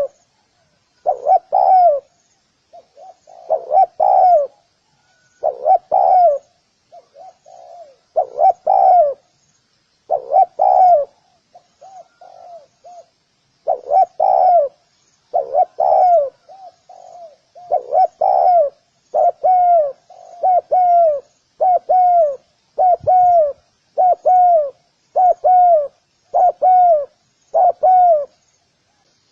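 Spotted dove cooing over and over in short phrases, each with a falling note. The phrases come about once a second in the second half. A faint high chirping sits behind them.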